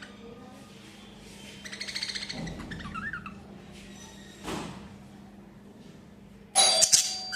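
Budgerigars chirping and chattering in short bursts with gliding notes. Near the end comes a loud sharp hit that leaves a ringing tone.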